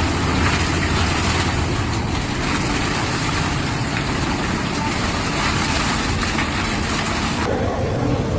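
Heavy storm noise: a dense, steady rush over a strong low rumble, whose sound changes about seven and a half seconds in.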